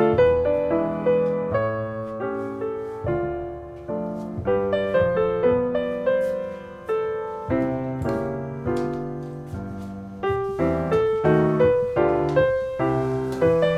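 Background piano music: a steady run of struck notes over low chords, each note fading after it is played.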